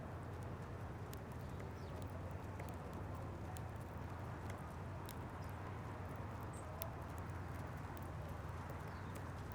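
Birds feeding at a seed feeder: light, irregular clicks and taps of beaks on seed and feeder, over a steady low rumble.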